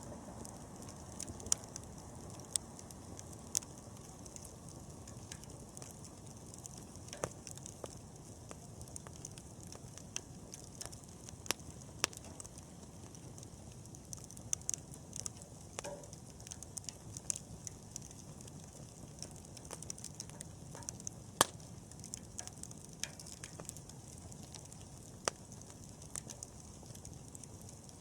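Wood bonfire burning: a low steady rush with irregular crackles and sharp pops throughout, the loudest pop about three-quarters of the way through.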